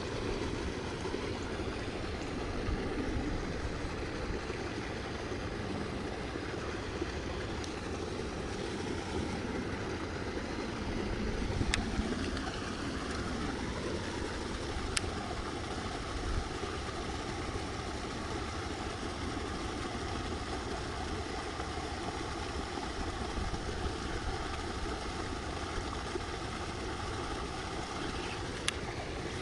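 Steady rushing of running water where a small stream spills into a pond, with a few faint clicks.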